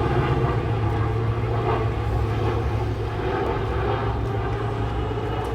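A steady low engine drone that holds an even pitch and level throughout, over outdoor background noise.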